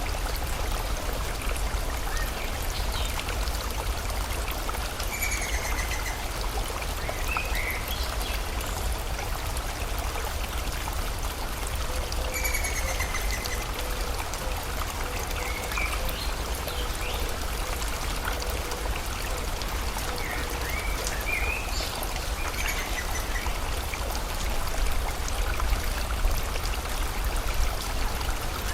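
Steady rush of flowing river water, with short bird chirps and whistles every few seconds.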